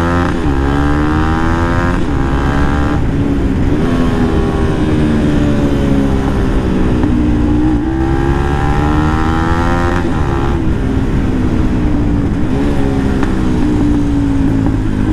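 Bajaj Pulsar NS200's single-cylinder engine through an Akrapovic full-system exhaust fitted with its dB killer, revved hard while riding: the note climbs, drops and climbs again several times as the bike accelerates and shifts gear.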